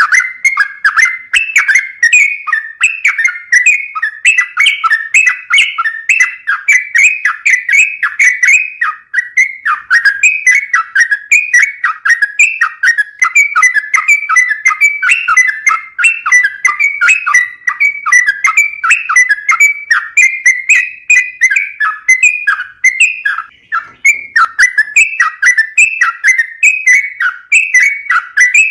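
Yellow-vented bulbul (trucukan) singing continuously: long runs of fast, bubbling, whistled notes with no real pause, thinning out only briefly about twenty-four seconds in.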